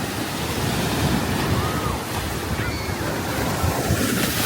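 Ocean surf washing steadily onto the shore, with wind rushing over the microphone.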